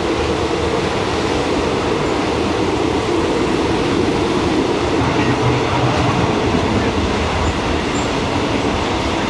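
Steady running noise of an old passenger train, heard from inside a moving carriage.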